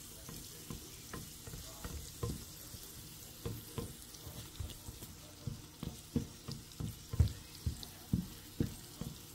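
Diced onion and garlic sizzling in oil in a nonstick frying pan, with a steady hiss. A spatula knocks and scrapes against the pan about twice a second as it stirs, more strongly in the second half.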